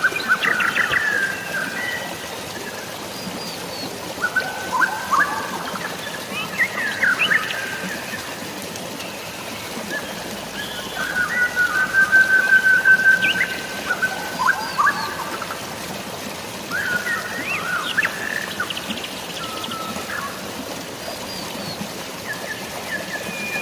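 Forest birds chirping and whistling in short, repeated phrases, with one long level whistle around the middle, over a steady hiss of light rain and running water.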